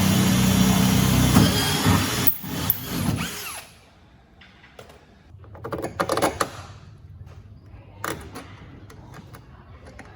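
Power tool motor running steadily, then winding down and stopping about three seconds in, followed by scattered light knocks and clicks.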